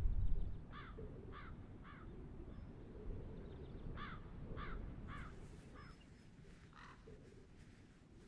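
A crow cawing in short calls, three close together about a second in and a longer run from about four seconds in. A low rumble dies away in the first half second.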